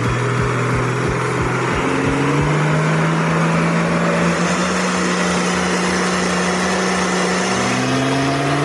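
Heavy truck engine working hard under load. Its pitch climbs about two seconds in, holds high, then falls near the end and rises again. Low regular knocks sound during the first couple of seconds.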